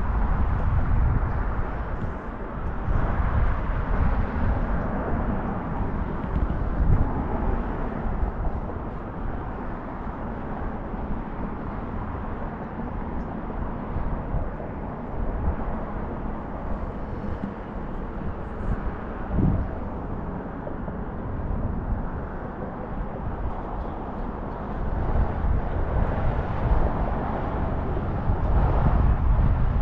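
Steady low rumble of road and engine noise from a moving car, with no distinct events.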